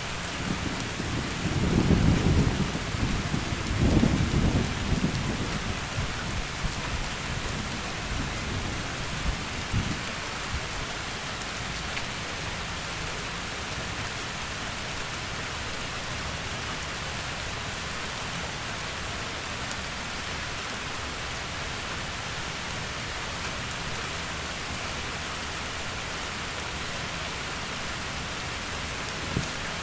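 Heavy rain falling in a steady hiss, with rolling thunder rumbling low and loud in the first few seconds, then dying away to rain alone.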